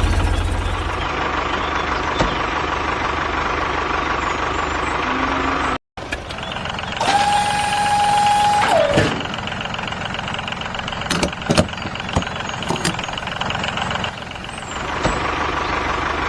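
Tractor engine running steadily, with a heavy low rumble at first. It cuts out abruptly about six seconds in and comes back. About seven seconds in, a steady held tone of nearly two seconds drops in pitch as it ends, and a few sharp clicks follow.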